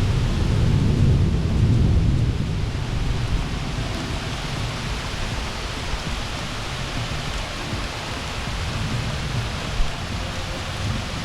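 Thunder rumbling through the first few seconds over steady heavy rain, which runs on after the rumble fades. A single brief sharp sound comes near the end.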